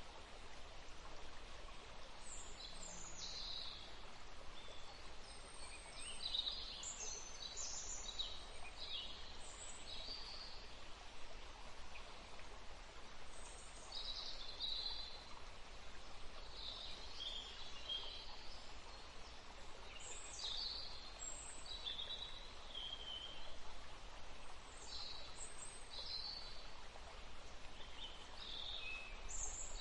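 Birds chirping: short, high calls repeated irregularly throughout, over a steady outdoor background hiss.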